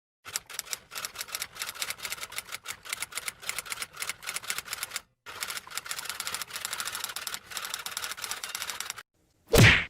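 Typewriter typing: a quick, uneven run of key strikes with a brief pause about halfway through. Near the end comes one short, loud burst, the loudest moment.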